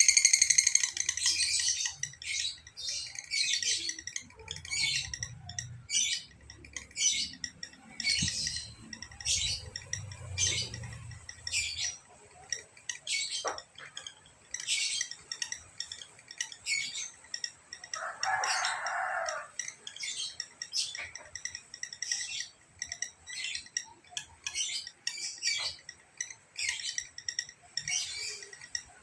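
Lovebird singing in a long unbroken run of shrill, high chirps, about one to two a second without a break: the continuous 'ngekek' song that fighter-lovebird keepers prize for its duration.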